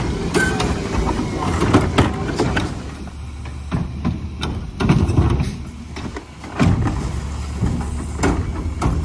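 Garbage truck engine running steadily, with repeated knocks and clattering bangs over it.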